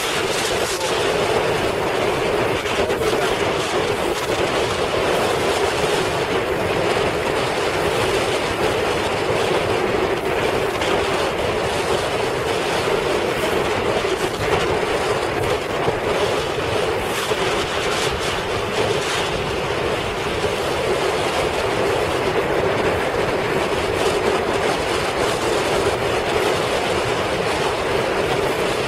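Steady loud rushing drone with a constant low hum and no let-up: a motorboat under way through rough water in heavy wind, with wind on the microphone.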